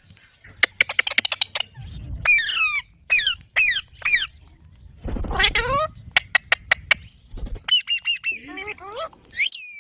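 Pet green parrot calling: runs of rapid clicks alternating with short squawks that fall steeply in pitch, with a longer falling call about five seconds in and more squawks near the end.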